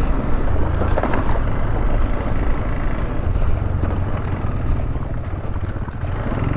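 Motorcycle engine running steadily under way, a continuous low rumble.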